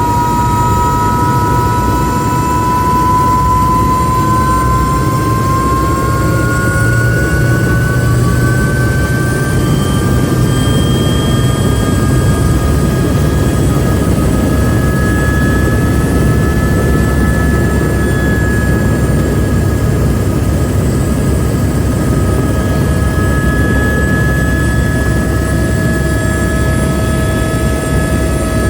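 AS350 B2 helicopter's single turboshaft engine and rotors running loud and steady, a turbine whine rising in pitch over the first ten seconds or so and then holding steady over a heavy rumble.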